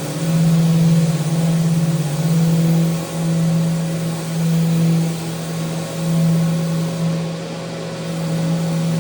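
Electric power sander running against a wooden handrail. Its steady hum briefly dips and swells every second or so as it is worked along the rail.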